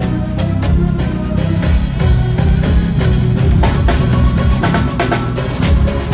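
Live band playing on stage, with a drum kit keeping a steady beat of kick and snare hits over a dense low end.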